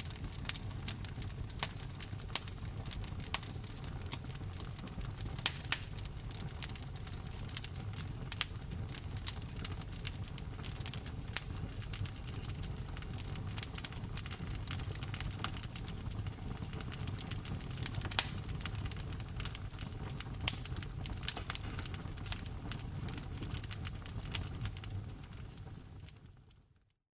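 Wood fire crackling: frequent sharp pops and snaps of varying strength over a steady low rumble of burning. The sound fades out near the end.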